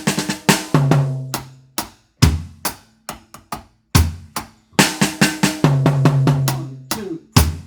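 Acoustic drum kit playing a reggae fill with ringing toms, then dropping into the one-drop groove: hi-hat with bass drum and snare landing together, no bass drum on beat 1. A second fill follows about five seconds in.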